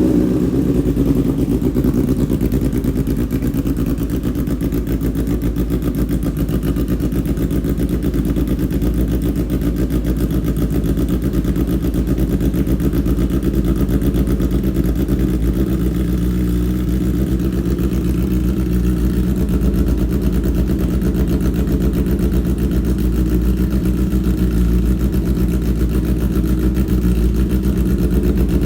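Honda CB1000R inline-four idling steadily just after a very cold start, through a full Akrapovic exhaust system, sounding cammed.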